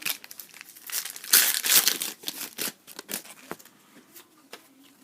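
A foil hockey-card pack wrapper crinkling and tearing as it is opened, with crisp snaps as the cards are handled. The crackle is loudest a little over a second in and dies away to a few scattered clicks after about three and a half seconds.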